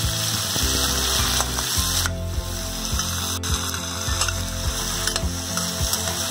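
Giant freshwater prawns sizzling as they fry in hot mustard oil in a steel pan, with a steady hiss and many short clicks and scrapes of a metal spatula against the pan as they are turned.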